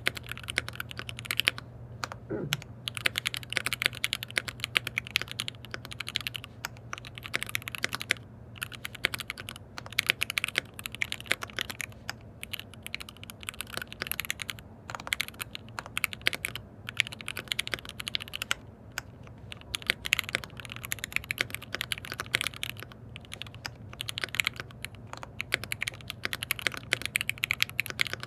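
Fast, continuous typing on a KBD67 Lite R3 mechanical keyboard with lubed switches: a dense stream of key clacks with a few brief pauses, over a steady low hum.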